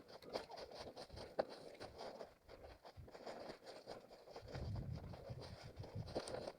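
An orienteer's footsteps and the rustle and scrape of forest ground and undergrowth, uneven and faint, picked up by a head-mounted camera.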